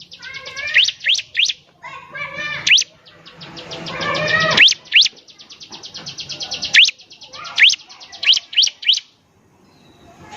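Bar-winged prinia (ciblek) singing in full song: rapid high ticking trills broken by sharp, upward-sweeping whistled notes and a few lower chattering phrases. The song stops briefly near the end.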